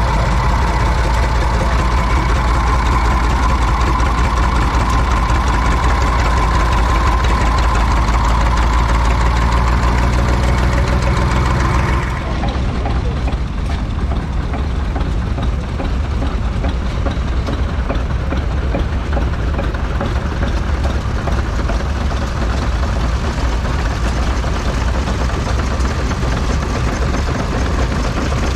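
Vintage stationary engine running steadily. About twelve seconds in, the sound changes abruptly to a different, rougher engine sound.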